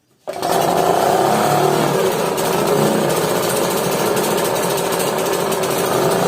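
EMECE outboard motor, a Spanish Seagull-style small outboard, running steadily with a rapid, rattling chatter. It cuts in abruptly just after the start.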